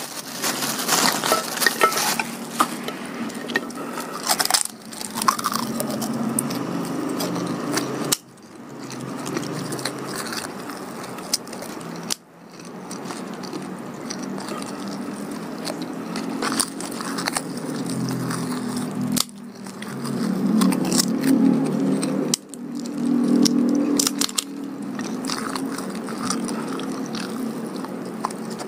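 Close-miked chewing and mouth sounds of someone eating pecel sayur (vegetables, tofu and rice cake in peanut sauce) by hand, with fingers working at a plate. Crinkling of a thin plastic food glove comes at the start. The sound breaks off abruptly several times.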